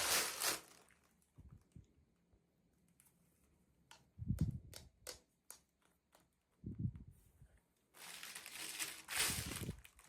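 Packaging being handled for unboxing: crinkling and rustling, with a run of small sharp clicks and a couple of soft thuds in the middle.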